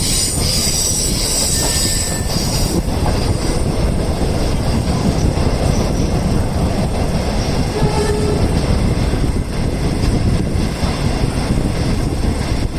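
A passenger train's wheels running on the rails, heard from aboard the train as a steady loud rumble. A hiss rides over it for the first two to three seconds.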